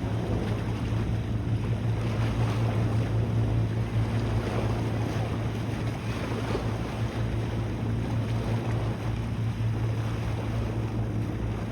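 A boat engine running with a steady low hum, under rushing water and wind buffeting the microphone.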